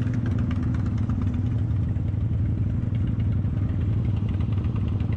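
Motorcycle engine running steadily at idle, an even low note with no revving.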